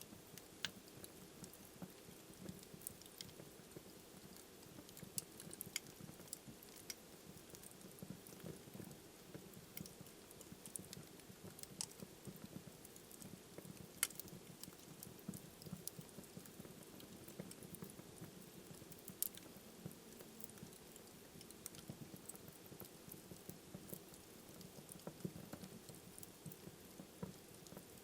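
Wood fire burning in a fireplace: a low, steady rush of flame with frequent sharp crackles and pops at irregular intervals. Two pops stand out as louder, one about halfway through and one a few seconds later.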